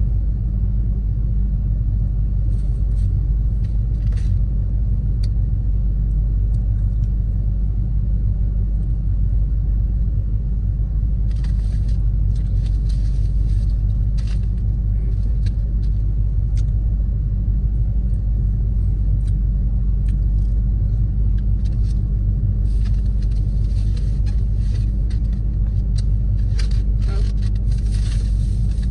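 Steady low rumble of an idling car, heard from inside the cabin. Scattered small clicks run over it, more of them about eleven seconds in and again near the end.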